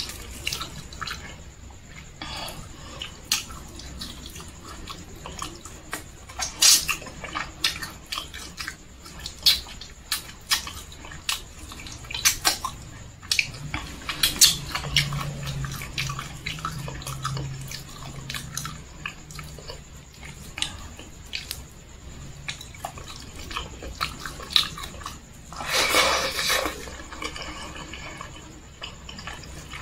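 Close-miked eating sounds of a person chewing rice and fried chicken by hand: wet chewing and lip smacks with many sharp clicks. There is a low hum around the middle and a louder, second-long noisy burst near the end.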